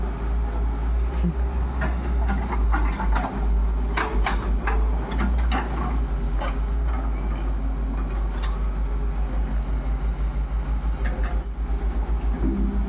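Heavy diesel engine running at a steady low throb, a few beats a second, with scattered metallic clanks and knocks, loading work on the machinery.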